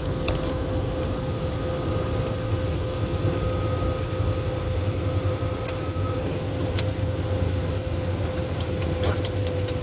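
Steady low rumble of a landing plane heard inside its cabin, with a constant hum and a few light clicks in the second half.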